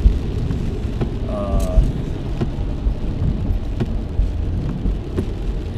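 Steady road and engine noise heard inside a car cruising on a freeway, with a few faint ticks scattered through it.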